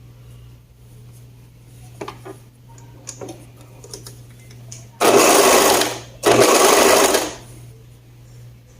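Two-needle overlock sewing machine (serger) running in two short bursts of about a second each, with a brief pause between them, as a sleeve seam is stitched. A few light handling clicks come before it.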